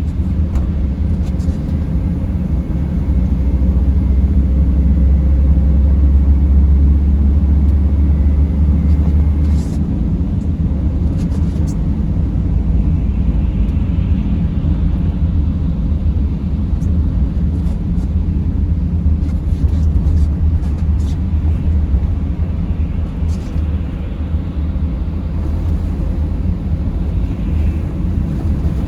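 Steady low rumble of a vehicle driving on snowy roads, engine and tyre noise together. A deeper, louder drone sits under it from about three seconds in and stops suddenly about ten seconds in, and a few faint clicks are scattered through.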